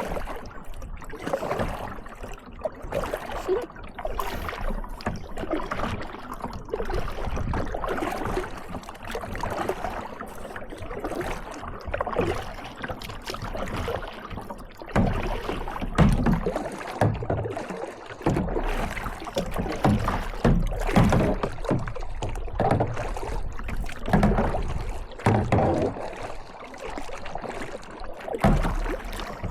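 Kayak paddle strokes dipping and splashing in lake water at an uneven pace, over a low rumble. The strokes grow louder in the second half.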